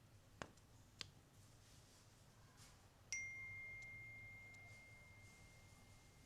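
Two faint clicks, then about three seconds in a single clear ding that rings on at one steady pitch and slowly fades.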